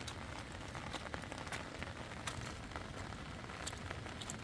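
Steady rain falling, with scattered sharp drops striking at irregular moments.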